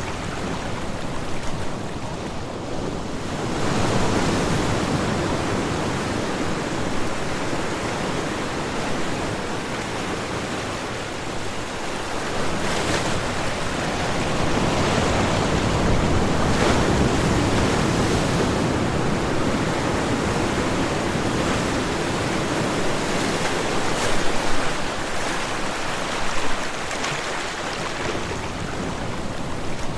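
Ocean surf: a continuous rushing wash of waves that swells and eases slowly as waves break and draw back, with a couple of sharper splashes near the end.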